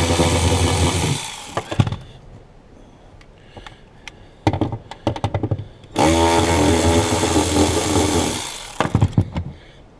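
Milwaukee cordless ratchet motor running in two bursts of about two seconds, backing out bolts. The first burst stops about a second in, and the second starts about six seconds in. Short clicks and rattles come between the bursts.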